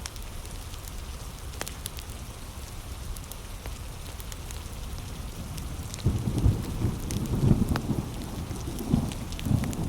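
Heavy rain hissing steadily, with scattered sharp pops and crackles of a wood fire. About six seconds in, a low rumble of thunder starts and keeps rolling.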